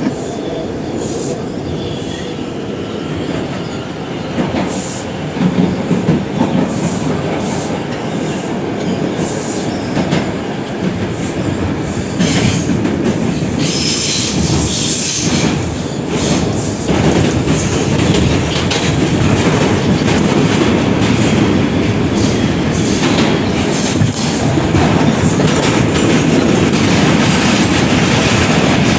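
Inside a moving R142 subway car: steady rumble of wheels on rail with clacking over the joints, and short high wheel squeals, most of them around the middle.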